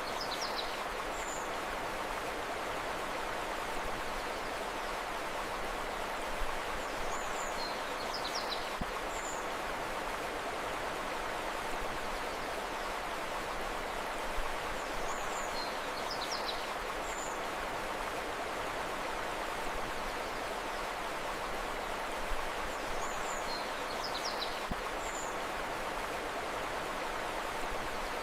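Steady rush of flowing river water, with a short burst of high bird chirps that comes back about every eight seconds, the same each time, as in a loop.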